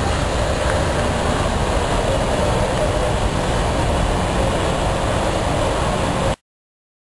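Car wash machinery running: a steady, loud rush of noise with a low rumble, which cuts off suddenly about six seconds in.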